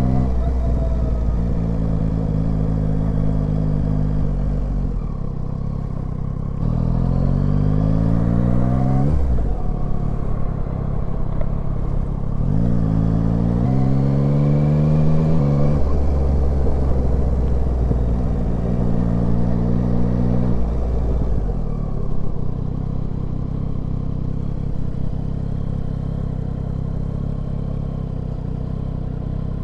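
Yamaha Tracer 9's 890 cc inline-three engine running under way. Its note rises twice as the bike accelerates, about a quarter of the way in and again near the middle, dropping back between. It runs steadier and lower in the last third.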